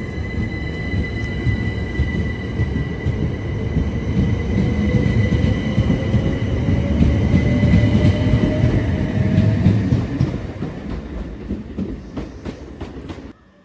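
Train running past on the rails: a heavy rumble with a steady high tone above it and a fainter whine that slowly rises in pitch, growing louder toward the middle and cutting off suddenly near the end.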